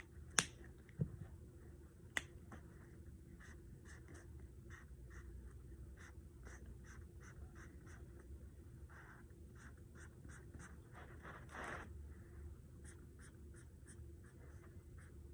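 Colouring tool scratching on paper as a drawing is coloured in: faint, quick repeated strokes, about two or three a second. There are a couple of sharp clicks in the first few seconds.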